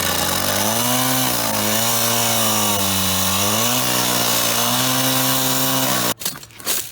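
Power tool cutting into metal, its motor note sagging and recovering under load over a loud hiss, then cutting off suddenly about six seconds in.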